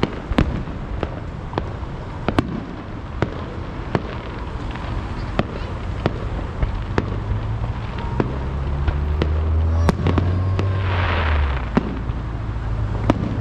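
Aerial fireworks going off: a steady string of sharp bangs, about one or two a second, with a low rumble building from about seven seconds in and a short burst of hiss about eleven seconds in.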